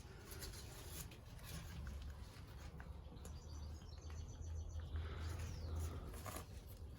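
Faint birds chirping over a low steady rumble, with a short run of quick high chirps about three seconds in and a falling whistle-like call a little later.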